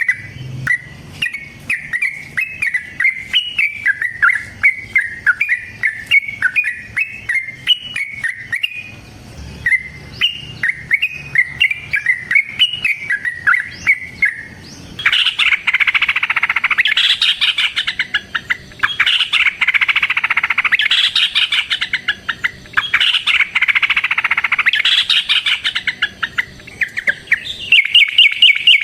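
Yellow-vented bulbul (trucukan) singing. For the first half it gives a string of short, bubbly rising-and-falling notes. About halfway it breaks into long runs of fast, dense chattering, the long rolling 'ropel' song of a bird in full voice.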